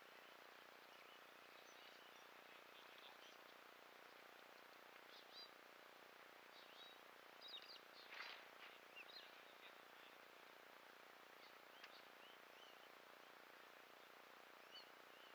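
Faint, scattered bird chirps over a steady low hiss, busiest around the middle.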